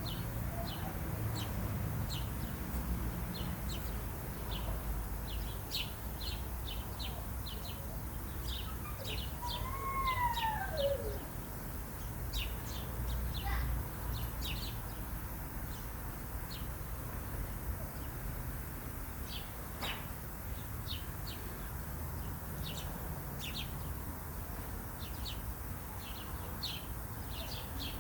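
Small birds chirping: many short, high chirps repeat throughout, with one downward-sliding call about ten seconds in. A steady low rumble sits underneath.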